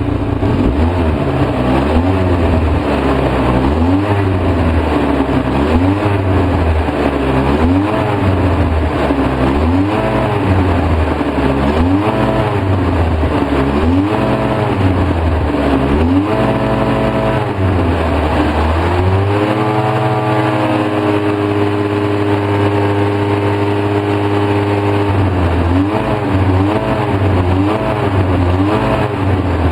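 2004 Polaris Sportsman 700 twin engine running a rough, hunting idle on partial choke, its speed surging up and down every second or two. About two-thirds of the way through it holds a steadier, higher speed for several seconds, then goes back to surging. It is spitting and sputtering, and the owner runs Seafoam through it to cure the rough idle.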